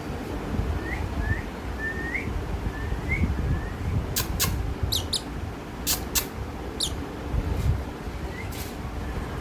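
Parrot calling: a few soft rising chirps, then a run of sharp, very high calls with quick downward-sweeping whistles in the middle, over a steady low rumble.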